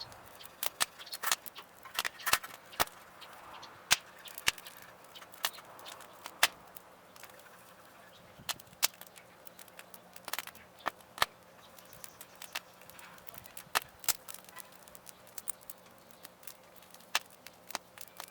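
Wood fire crackling, with irregular sharp pops and snaps, a few of them loud.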